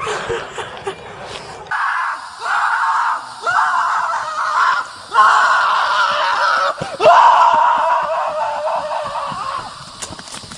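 Loud screaming in a run of long, drawn-out cries, the last two the longest and loudest, fading out near the end.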